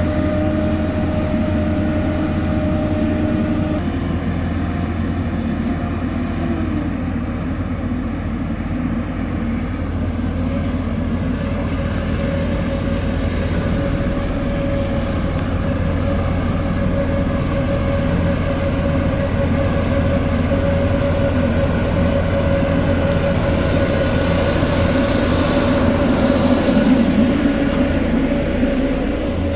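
Heavy diesel road-construction machinery running steadily: a loud low engine drone with a steady whine over it. The whine drops in pitch about four seconds in.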